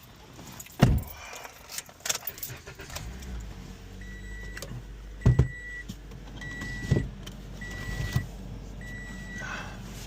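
Keys jangling and a thump inside a car, then a low steady hum comes on about three seconds in and the car's warning chime beeps five times at one steady pitch, about once every second, with a few knocks in between.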